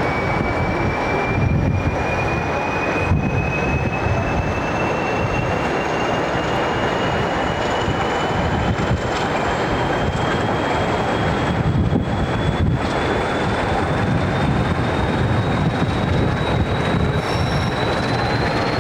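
Train running, with a loud steady rumble and a high whine that climbs slowly and evenly in pitch as it gathers speed.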